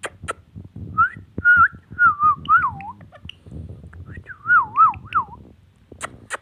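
Ringneck parrot whistling two runs of wavering, warbling notes, with a few short sharp clicks near the end.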